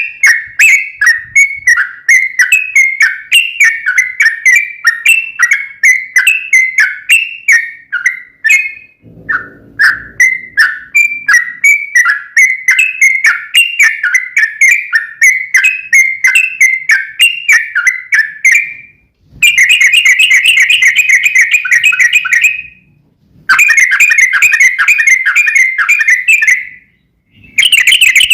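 Yellow-vented bulbul (trucukan) singing: a long series of sharp, repeated chirping notes, about two to three a second, broken once by a brief pause. About two-thirds of the way in, the song turns into fast rattling trills in three long bursts with short breaks between them.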